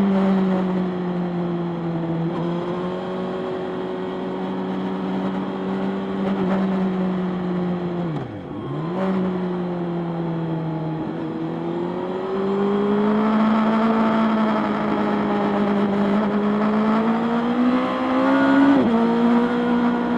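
Motorcycle engine running while riding, its pitch holding steady, dipping sharply about eight seconds in, then climbing again. Near the end the pitch rises and then drops suddenly.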